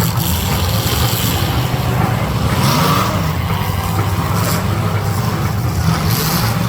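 Demolition derby cars' engines running loud, their pitch rising and falling as they rev, with bursts of harsher noise over the top.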